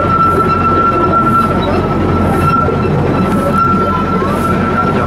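Park railway train running along its track: a steady rumble and rattle of wheels and carriages, with a constant high whine over it.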